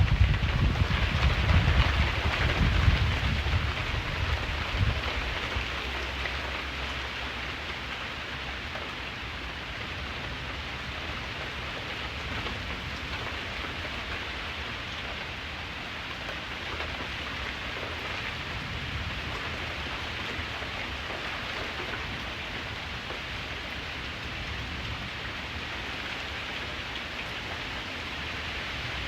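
Steady heavy rainfall, with a low rumble of thunder that dies away over the first five seconds or so.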